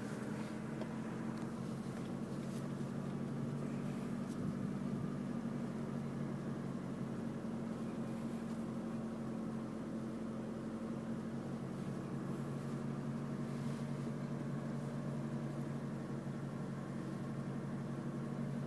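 Truck engine running steadily under light throttle at low speed, heard from inside the cab as an even, unchanging drone.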